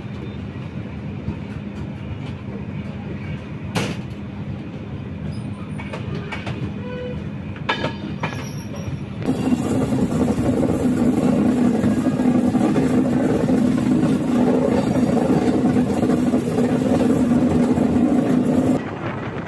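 Indian Railways passenger train (the Kongu Superfast Express) running between stations, heard from on board as a steady rumble with a sharp click about four seconds in. About halfway through a much louder steady stretch of train noise starts suddenly and stops just as suddenly near the end.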